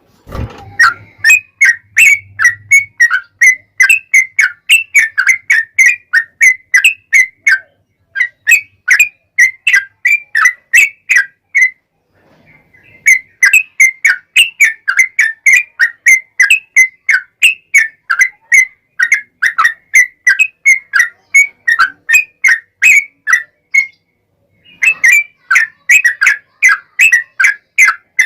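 Yellow-vented bulbul (trucukan) singing a long, rapid chattering run ("ropel panjang") of short whistled notes, about three to four a second. It breaks off briefly twice, about 12 and 24 seconds in. This is a recording played loud as a lure to set other bulbuls singing.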